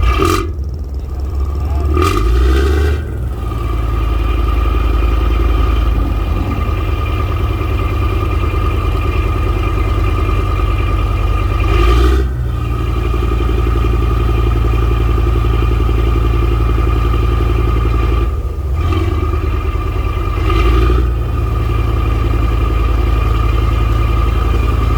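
Tugboat's engine running steadily with a low rumble and a high, steady whine. The engine note changes briefly a few times as the throttle is worked.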